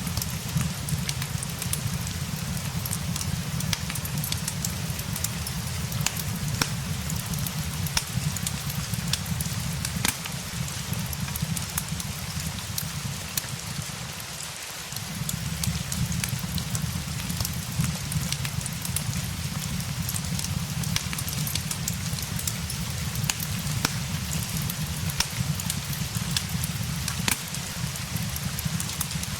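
Steady rain with a fireplace crackling: an even hiss of rain under a low rumble, with frequent scattered sharp crackles and taps. The low rumble briefly drops away about fourteen seconds in, then returns.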